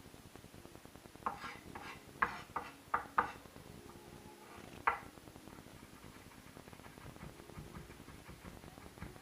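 Utensil clinking against a dish: a quick run of about six sharp, ringing clinks, then one more a second and a half later.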